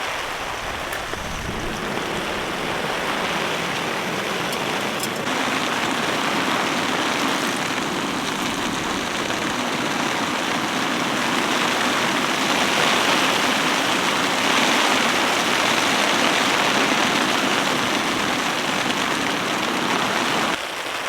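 Heavy rain falling steadily, a dense even hiss that grows somewhat louder past the middle.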